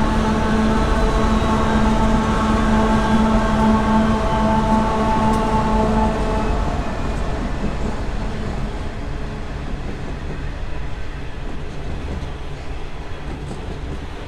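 Coal train's diesel locomotives passing close by, their engines running with a steady drone that dips slightly in pitch as they go past. About six seconds in the engine sound fades and the rumble of the coal hopper wagons rolling along the rails takes over, slowly growing quieter.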